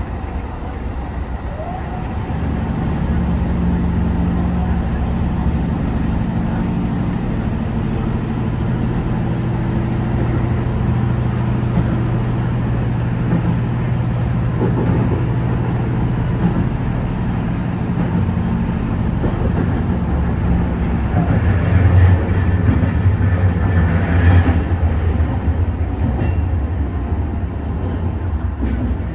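A JR Senseki-Tohoku Line HB-E210 diesel-hybrid railcar running along the line, heard from inside the train: a steady drive hum of low stacked tones with running noise on the rails. It grows louder a couple of seconds in and is loudest for a few seconds near the end, with more high-pitched rail noise.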